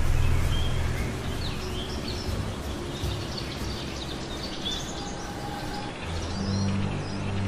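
Birds chirping over steady outdoor background noise, with a low hum at the start and again near the end.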